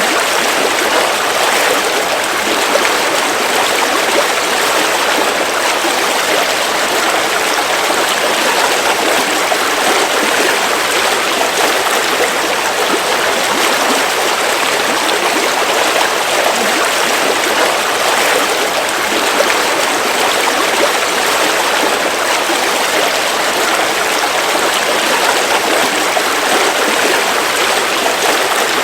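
River water flowing over rocks, a steady rushing and splashing.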